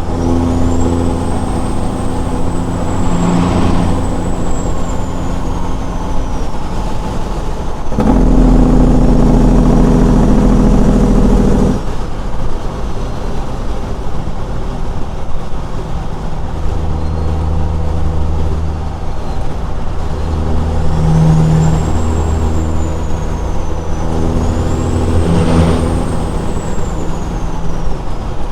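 Straight-piped Caterpillar 6NZ diesel truck engine running under way, with a high whistle rising and falling over it twice. About eight seconds in comes a louder, deeper stretch of about four seconds that cuts off suddenly.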